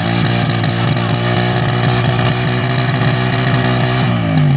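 Motorcycle engine rigged to drive a tubewell pump, running steadily at raised revs, with the revs dropping near the end.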